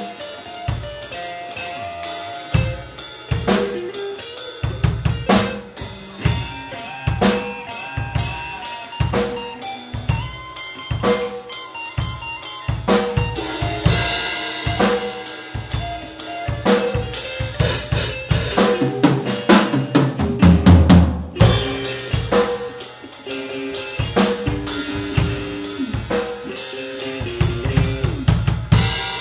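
Improvised blues-fusion jam of guitar and drum kit: the guitar plays melodic lines with bent notes over busy drumming. It gets loudest about two-thirds of the way through.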